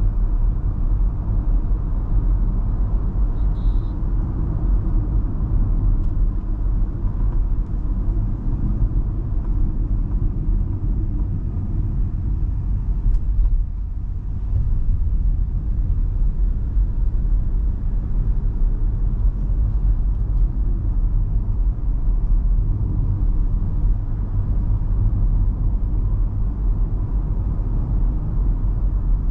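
Steady low rumble of an MG Hector Plus SUV driving, from its 1.5-litre turbo petrol engine with CVT and its tyres on the road. A short faint high beep comes about three and a half seconds in.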